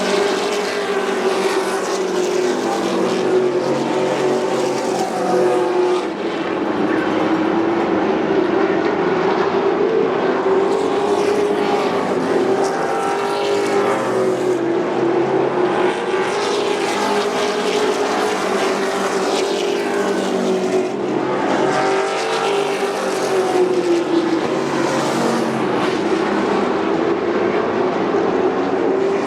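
Thunder Truck race trucks' engines running at racing speed around the oval, a steady loud drone whose pitch rises and falls as the trucks accelerate and lift, swelling and fading as they pass and move away.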